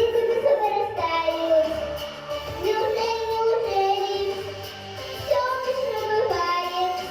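A young girl singing a children's song in Russian over a musical accompaniment, holding and sliding between sung notes.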